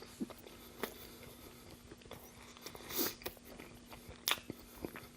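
Close-miked chewing of a double Burger King burger: soft wet mouth clicks and smacks at irregular intervals, the loudest about three and about four seconds in.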